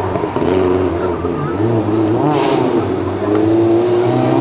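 Rally car engine revving hard on a loose gravel stage. The revs dip and rise through the corners, then hold high and climb in the last second or so. A brief hiss comes about halfway.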